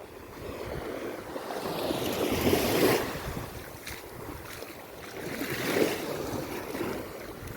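Sea waves breaking and washing up the beach, the surf swelling twice, with some wind buffeting the microphone.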